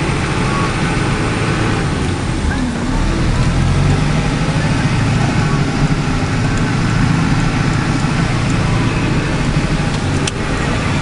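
Farm tractor engine running steadily under way, heard from inside the cab.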